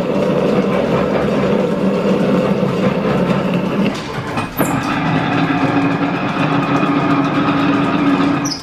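Shop machinery running steadily with a constant hum. About four and a half seconds in it breaks briefly, and a slightly higher-pitched hum carries on.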